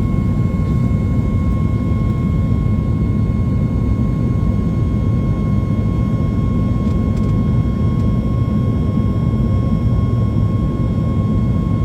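Steady cabin roar of a Boeing 737 MAX 8's CFM LEAP-1B jet engines at high thrust during takeoff, heard from inside the cabin: a deep, even rumble with a thin steady whine on top.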